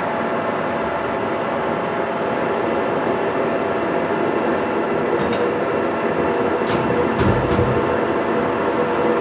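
Steady mechanical running of a metalworking machine tool, with a few light clicks and a low thump a little past halfway.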